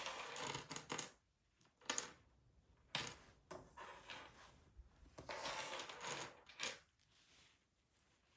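Objects being handled at close range: a few scattered clicks and knocks with soft rustling between them.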